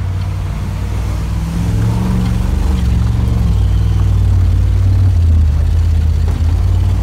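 A vehicle's engine heard from inside the cab, a steady low drone that grows louder about a second and a half in as the vehicle pushes through a water-filled mud hole.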